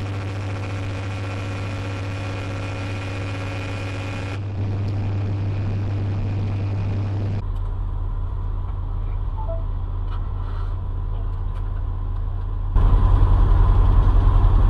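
Steady low engine and road drone of a vehicle heard from inside the cab, changing abruptly about 4 s, 7 s and 13 s in as one recording gives way to another.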